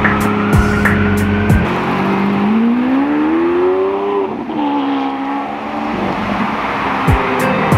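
Lamborghini Aventador's V12 accelerating hard: its note climbs for about two seconds, drops sharply at an upshift about four and a half seconds in, then pulls on in the next gear. Background music with a beat plays at the start and comes back near the end.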